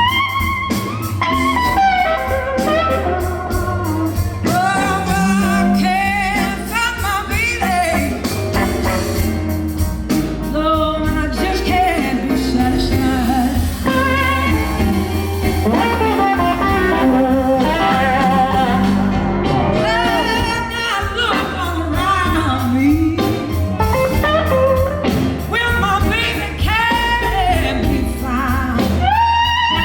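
Live blues band playing, an electric guitar taking bending lead lines over bass and drums.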